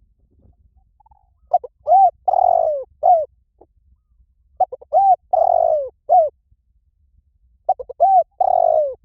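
Spotted dove calling: three cooing phrases about three seconds apart. Each phrase is a quick run of short coos followed by a longer falling coo and a final short note.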